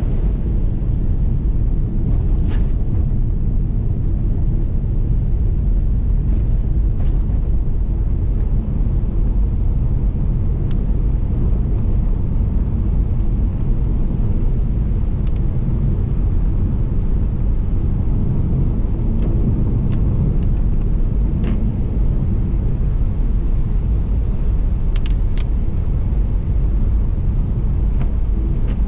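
Car driving at a steady pace: a constant low rumble of road and tyre noise, with a few faint, scattered ticks.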